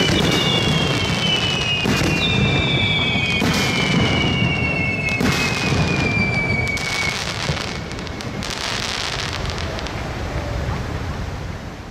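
Aerial fireworks display: shells bursting with a boom about every second and a half over a steady crackling rumble. High whistling tones slowly fall in pitch through the first half, and the sound fades out near the end.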